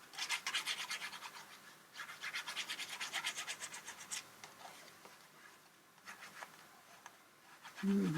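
Rapid back-and-forth rubbing on paper in two bouts, as glued paper scraps are worked and pressed flat, then fainter scratching. A brief low hum near the end.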